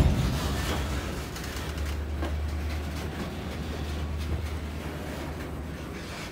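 Freight train's open-top hopper cars rolling past at close range: a steady low rumble of steel wheels on rail. A loud knock fades away at the very start.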